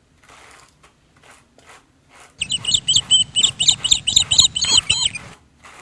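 A bird chirping a quick run of repeated high notes, about four a second, for around three seconds starting a little over two seconds in, with a low rustle underneath.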